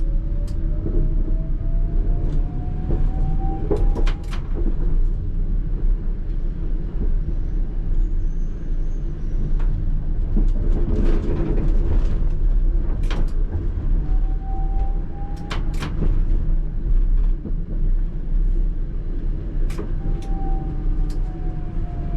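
ČKD Tatra T3R tram pair running, heard from the driver's cab: the traction motor whine rises in pitch as the tram accelerates in the first few seconds and again about 15 seconds in, and falls as it slows near the end. Under it run a steady low rumble and hum, with scattered sharp clicks.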